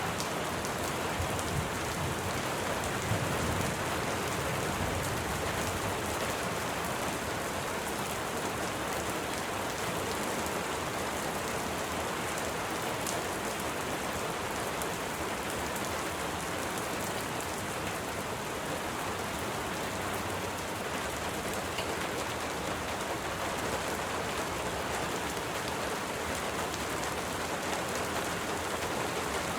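Steady, even rain falling, with a low rumble of distant thunder fading away in the first few seconds.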